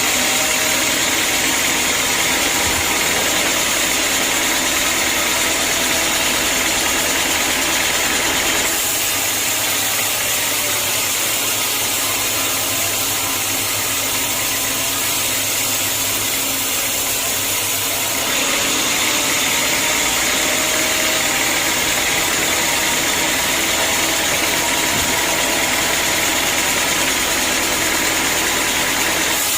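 Band sawmill running steadily with a loud, hissing machine noise. Its tone changes for about ten seconds from roughly nine seconds in, then returns.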